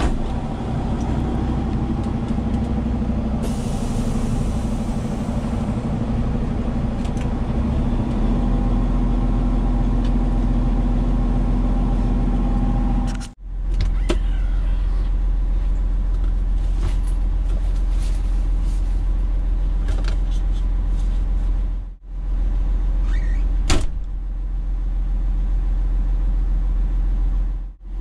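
Truck engine running steadily with a deep, even hum, broken by two abrupt cuts in the sound partway through and a single sharp click a little after the second cut.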